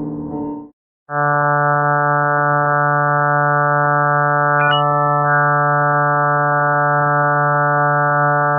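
A droning ambient tone fades out in the first second. After a short silence, a loud steady electronic drone starts: a sustained stack of many pitches held unchanged, of the kind presented as a planet's 'space sound'. A short rising chirp cuts in about halfway through.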